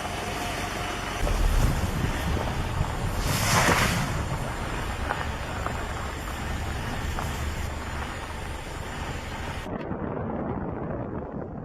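Wind buffeting the microphone over a low rumble, with a brief louder gust about three and a half seconds in; the sound turns duller near the end.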